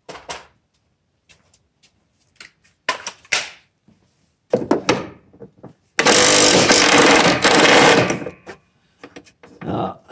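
Handling knocks and clicks of metal parts and tools, then a cordless power tool runs hard for about two seconds, then a few more knocks.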